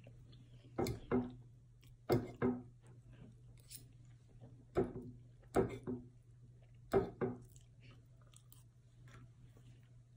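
A person chewing a mouthful of food close to the microphone. A few short, louder wet mouth sounds come mostly in quick pairs. A faint steady low hum runs underneath.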